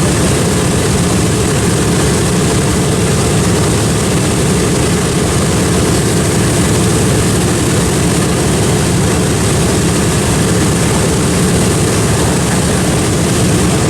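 B-25 Mitchell bomber's twin radial piston engines running loud and steady on the ground while it waits to take off.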